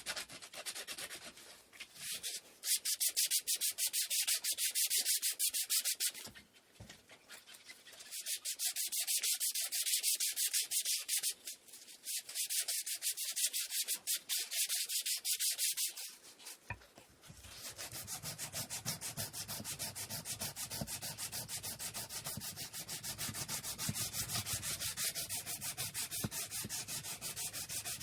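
Wood being sanded by hand with sandpaper: two spells of quick, even back-and-forth strokes, then from about halfway a steadier, fuller-sounding run of strokes.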